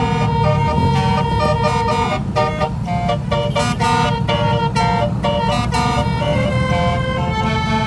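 A truck's engine running with a steady low rumble, under a melody of steady tones that change pitch every fraction of a second.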